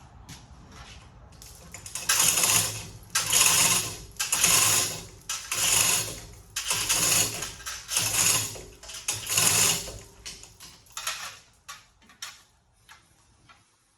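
Repeated mechanical rasping strokes, seven in a row about a second apart, followed by a few lighter clicks and knocks near the end.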